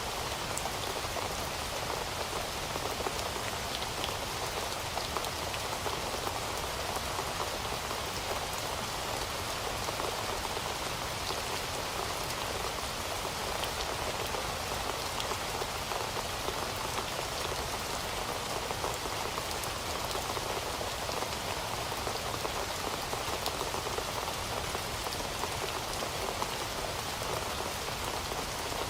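Heavy rain falling steadily, a dense even wash of drops hitting a surface with many fine individual patters.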